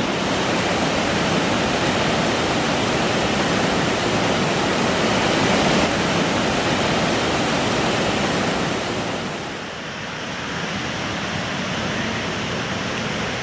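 A waterfall on a river swollen by days of rain, rushing steadily. About two-thirds of the way through, the rush drops in level and turns duller.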